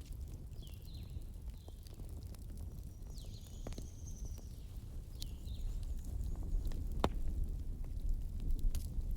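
Logs burning in a fireplace: a steady low rumble of flame with scattered sharp crackles and pops, one louder pop about seven seconds in. A few faint, short high-pitched chirps or whistles sound in the first half.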